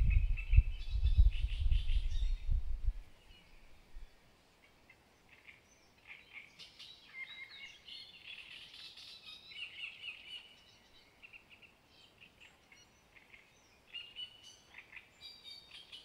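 Small birds chirping and singing in short, overlapping phrases and trills. A low wind rumble on the microphone is the loudest sound at first and drops away about three seconds in.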